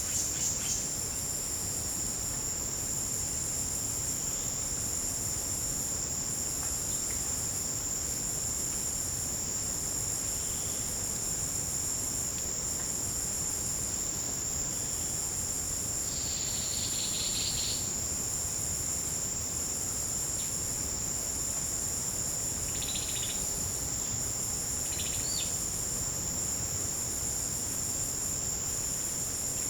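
Chorus of forest insects: one steady high-pitched trill, with a higher buzz that pulses a little over a second apart. A few brief shrill calls rise above it, the longest lasting a second or two just past the middle.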